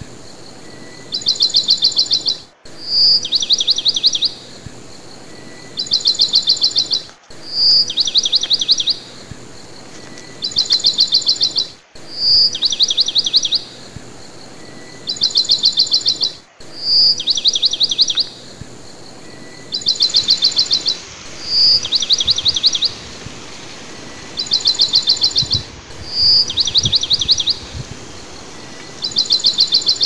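A bird singing the same short phrase over and over, about every two seconds: a clear high note followed by a rapid trill. Each phrase is identical, like a looped recording. About two-thirds of the way through, a steady hiss rises under the song.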